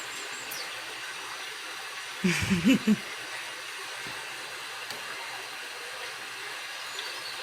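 A steady, even hiss of background noise, with a brief burst of a woman's voice, a word or two, about two and a half seconds in.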